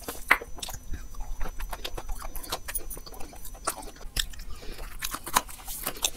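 A person chewing a bite of besan dry-fruit barfi with roasted almonds inside, close on a lavalier microphone. It makes an irregular run of small crisp crunches and mouth clicks, a few of them louder.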